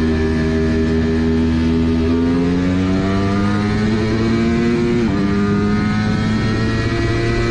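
Motorcycle engine accelerating hard at very high speed, its pitch climbing steadily. The pitch drops suddenly about five seconds in at a gear change, then climbs again.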